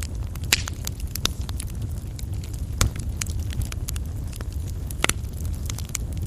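Coal fire burning in a fireplace: a steady low rumble with frequent sharp crackles and pops at irregular intervals, a few louder snaps among them.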